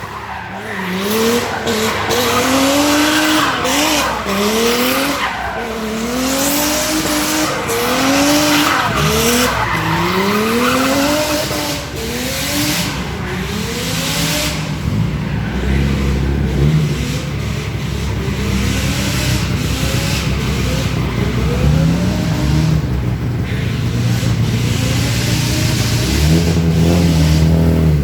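Race car engine revving up and dropping back again and again, about once a second, with tyres skidding. About halfway through it settles to a lower, steadier running note.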